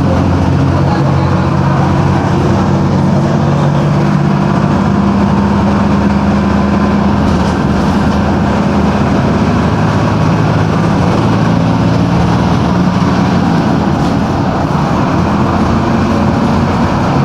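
Mercedes-Benz OF-1721 bus's OM-366LA six-cylinder turbodiesel engine running under way, its note rising and falling a few times as the bus changes speed.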